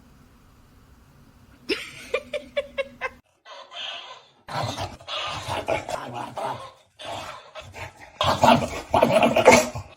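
A dog vocalizing: a quick run of short sounds starting about a second and a half in, then longer, louder stretches of vocal noise that are loudest near the end.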